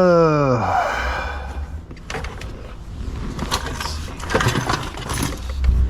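A man's voice gliding down in pitch as one drawn-out sound, ending within the first second, followed by irregular clicks, taps and rattles of hands handling wiring and trim parts inside a car's center console.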